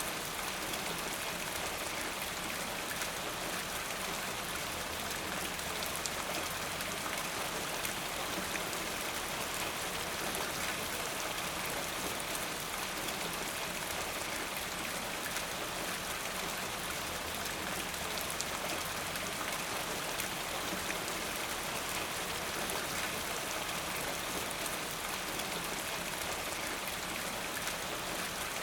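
Steady rainfall, an even hiss of drops with faint individual drop ticks, unchanging throughout.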